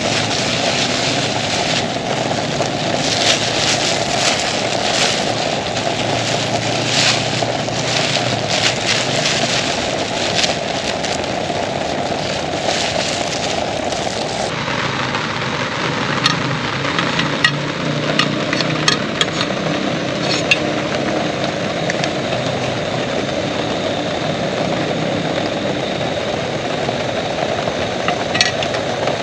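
Heavy rain falling steadily, with scattered sharp drop hits; the sound changes abruptly about halfway through.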